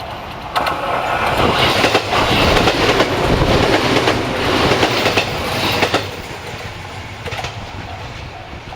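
A train passing close by, its wheels clacking over the rail joints; the sound jumps up about half a second in, stays loud for some five seconds, then drops to a lower rumble.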